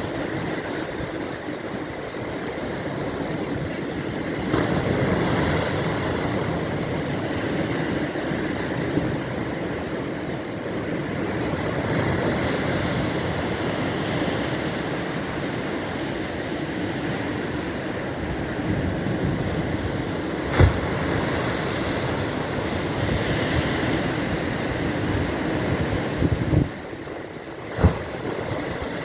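Baltic Sea surf washing onto the shore, swelling and easing, with wind rumbling on the microphone. Two sharp knocks come in the latter part.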